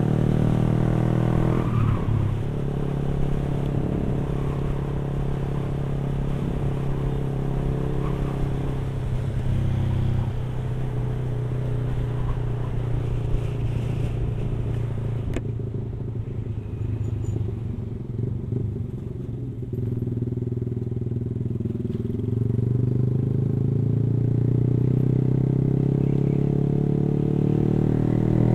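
Yamaha R15 V3's single-cylinder engine running under way as the motorcycle is ridden, through what is likely an aftermarket exhaust. The engine note eases off about halfway through, then rises in pitch again near the end as the bike accelerates.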